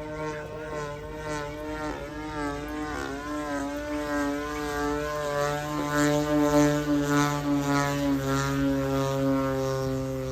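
Small 20cc engine of a radio-control model airplane running with its propeller turning, holding a fairly steady speed with small wavers in pitch.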